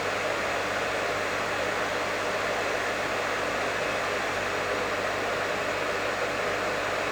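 Professional hair dryer running steadily: an even rush of blown air with a low steady hum beneath it.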